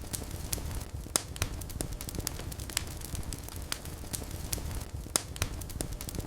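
Wood fire burning in a fireplace: sharp, irregular crackles and pops, several a second, over a steady low rumble of flames.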